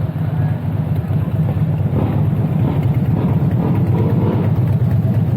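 A car engine and road noise making a steady low drone while the car drives along.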